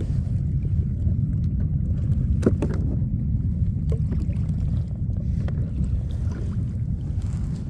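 Steady low rumble of wind on the microphone and water moving around a kayak, with a couple of light knocks about two and a half seconds in.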